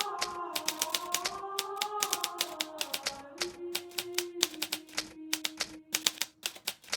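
Hermes Baby portable manual typewriter being typed on: a quick, irregular run of sharp key strikes, several a second, with a short pause near the end. Soft sustained background music plays underneath.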